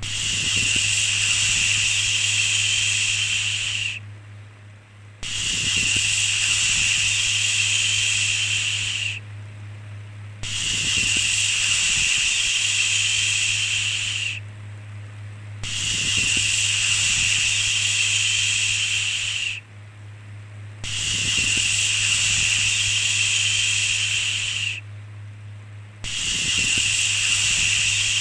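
A soothing 'shhh' shushing sound, drawn out for about four seconds at a time with a short pause between, repeating evenly about every five seconds. A steady low hum runs underneath.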